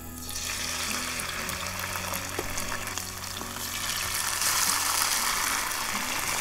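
Thawed shredded hash browns hitting hot oil in a stainless frying pan on a portable gas camp stove and sizzling. The sizzle starts a moment in and grows louder about two-thirds of the way through as another handful of potato goes in.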